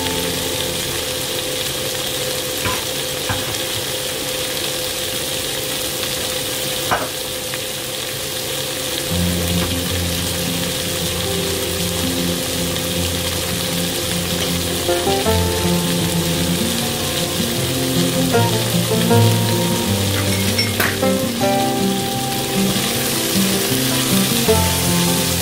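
Chicken, tofu, onion and dried shrimp sizzling steadily in hot oil in a pan, stirred with a spatula near the end, with background music.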